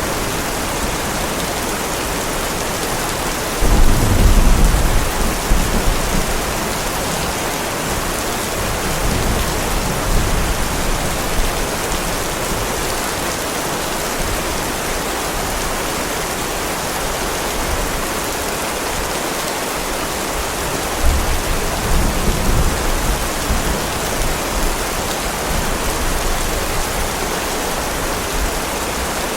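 Heavy rain pouring steadily, with thunder rumbling twice: a loud low rumble about four seconds in that fades over a few seconds, and a weaker one about 21 seconds in.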